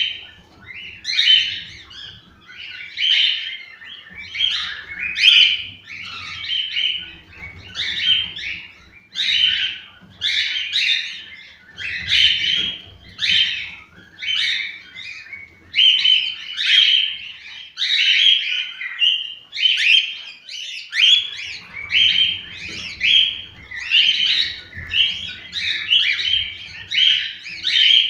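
Cockatiels chirping in a continuous run of short, bright calls, about one or two a second: the breeding-season chatter played to stimulate cockatiels to mate.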